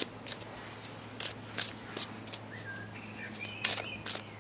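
Tarot cards being handled, giving scattered sharp clicks and taps, with a few short whistled chirps about two and a half and three and a half seconds in, over a steady low hum.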